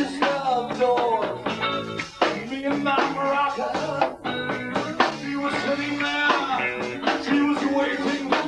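Live band music: a guitar, bass and drums trio playing, with a melodic guitar line over a steady drum beat.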